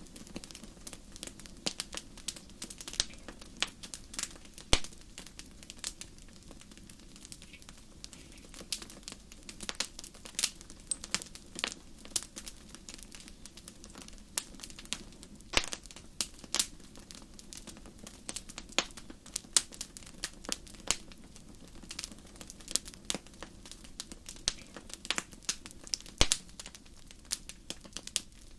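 Wood fire crackling: irregular sharp pops and snaps, several a second, over a soft steady hiss of the flames.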